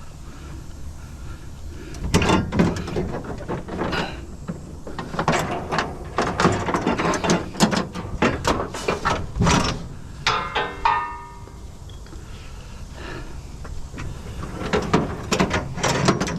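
Scrap being handled and moved, with repeated clanking, knocking and rattling. A brief ringing tone sounds about ten seconds in.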